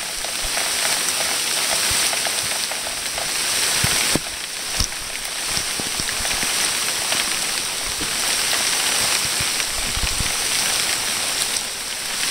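Heavy rainstorm pouring down on a street, a steady dense hiss of rain on the surfaces, with a few sharper taps of drops landing close by.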